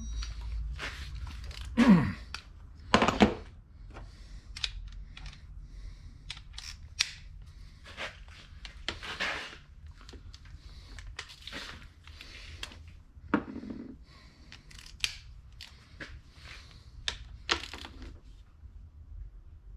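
Irregular clinks, clicks and knocks of hand tools and metal transmission parts being handled on the bench, with the two loudest knocks about two and three seconds in, over a faint low hum.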